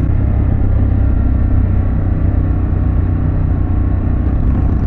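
Harley-Davidson Pan America's V-twin engine with a Vance & Hines exhaust running at a steady cruising speed, heard together with wind rush as the motorcycle rides, with a steady low rumble and no change in engine pitch.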